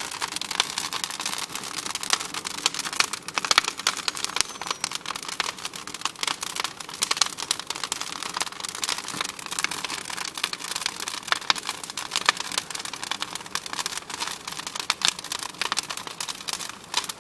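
Bonfire burning with a dense, steady crackling and popping.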